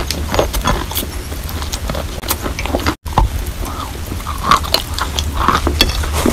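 A person chewing chalk coated in paste: crackly crunching and wet mouth sounds, with a momentary break about halfway.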